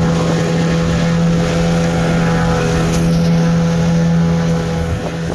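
Motor boat engine running at a steady cruising speed, a loud, even drone under way on the water.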